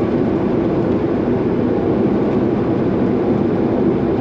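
Straight-piped Peterbilt 389's diesel engine and exhaust droning steadily as the loaded truck cruises on the road.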